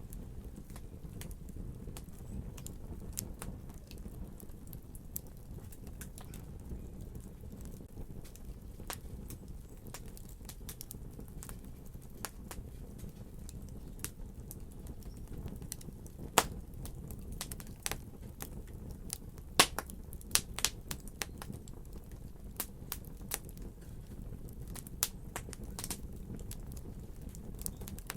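Fireplace fire crackling over a steady low rumble, with frequent sharp pops; the two loudest come about 16 and 19 seconds in, and a quick run of pops follows the second.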